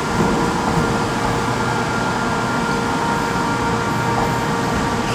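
Steady hum and rumble of a train at a station platform, with a constant mid-pitched tone.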